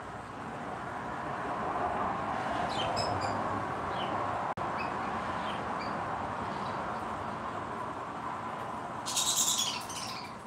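Small birds chirping in short, scattered high chirps over a steady background hiss, then a quick burst of rapid chirping near the end.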